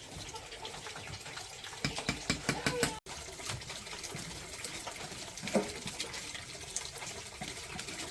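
Water running and splashing steadily. A quick run of sharp knocks comes about two to three seconds in, and a single louder knock about five and a half seconds in.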